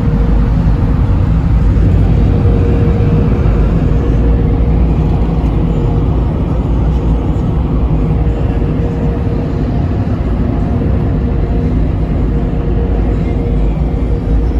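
Conveyor car-wash tunnel machinery heard from inside the car: a loud, steady rumbling noise with a faint steady hum.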